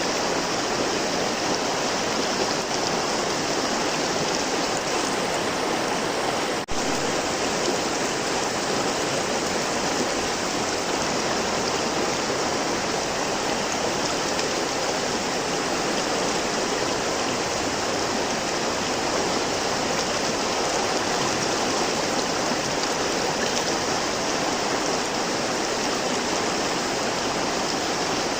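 River water flowing steadily, an even continuous rushing. A momentary dropout occurs about seven seconds in.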